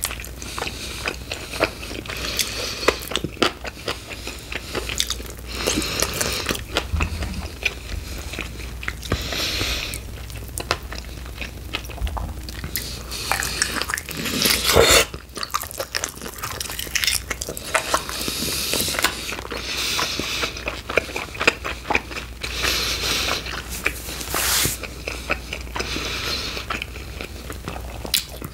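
Close-miked biting and chewing of chicken wings, a steady run of short sharp mouth clicks and wet bursts, with the loudest bite about halfway through.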